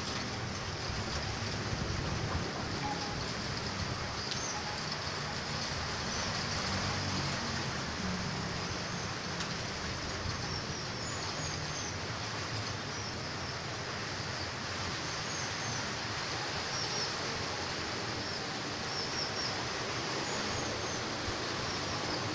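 Strong storm wind rushing steadily, with many short high chirps of small birds through most of it.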